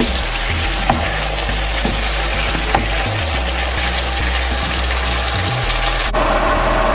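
Beetroot curry masala (beetroot strips, tomato and spices) sizzling in oil in a steel pan while a wooden spoon stirs it, with a few faint clicks. The sizzle is the sign that the masala is fully fried, its water cooked off so that only oil is left. The sizzling cuts off near the end.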